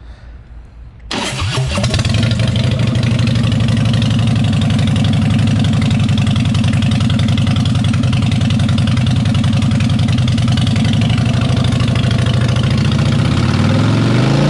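2013 Harley-Davidson Fat Boy Lo's Twin Cam 103 V-twin with an aftermarket exhaust being started. The starter cranks briefly, the engine catches about a second in and idles steadily, then it is revved once near the end.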